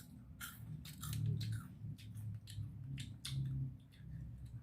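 A person biting into and chewing crispy deep-fried seafood, with a run of irregular crunches.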